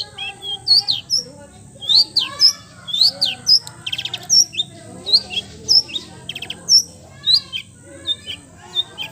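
Long-tailed shrike (cendet) singing a fast, varied song of short sharp whistles, quick down-sweeping notes and brief chattering rattles, full of mimicked calls of other birds.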